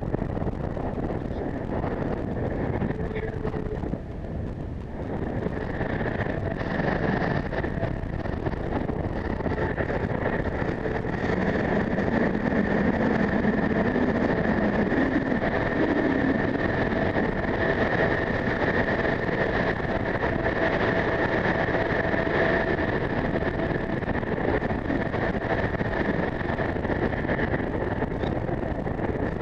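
Strong wind buffeting the microphone high up on a communications tower, with a steady high whistle running through it from about six seconds in.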